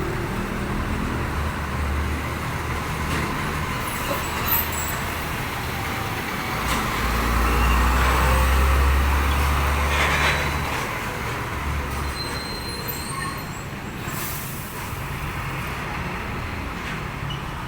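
Road traffic with heavy trucks going by. A deep engine rumble swells about seven seconds in and fades after about eleven seconds as a large vehicle passes close.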